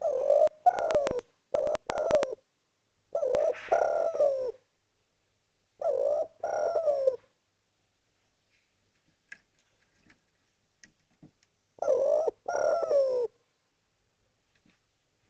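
Spotted dove (derkuku) cooing loudly in a series of short phrases of low, wavering coos separated by pauses, with a longer silence in the middle; a call used to lure other doves or get them singing.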